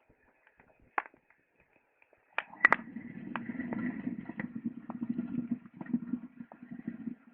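Wood fire crackling with sharp pops. A little over two seconds in, a low rushing rumble starts and runs for about five seconds under further crackles.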